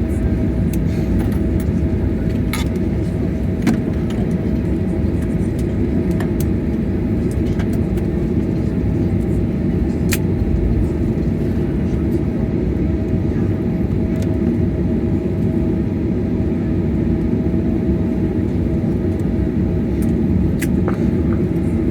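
Steady rumble in the cabin of a Boeing 737-800, its CFM56 engines and airflow making a constant drone with a steady hum, and a few sharp clicks and rattles.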